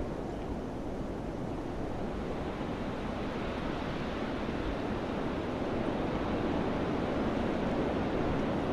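Steady rushing wind with a low rumble, slowly swelling louder toward the end.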